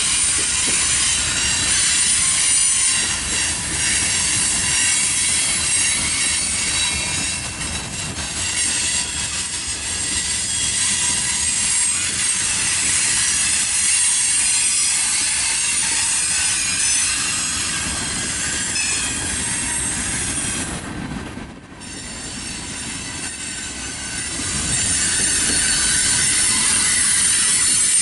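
Freight cars rolling past on jointed track: a steady rumble of wheels on rail with high-pitched wheel squeal over it. The sound dips briefly about three-quarters of the way through.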